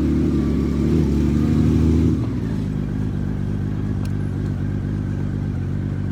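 Honda Valkyrie motorcycle's flat-six engine running steadily. About two seconds in it eases off and settles to a quieter, lower running note.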